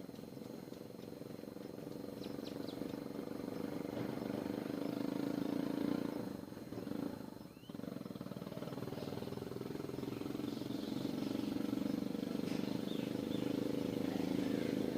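A motor vehicle engine running steadily, swelling and fading, with a short drop about seven seconds in. Faint small-bird chirps sound over it now and then.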